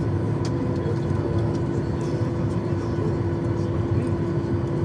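Steady cabin noise of a Boeing 737-800: a constant low rumble with a steady hum from the running engines and air systems, holding level without rising or falling.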